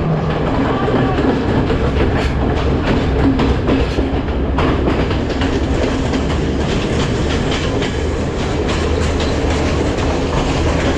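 Diesel-hauled passenger train on the move: a steady low engine drone under wheels clicking and clattering over the rails.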